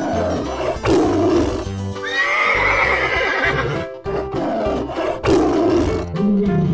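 Upbeat children's background music with cartoon animal sound effects over it, among them a wavering horse whinny about two seconds in.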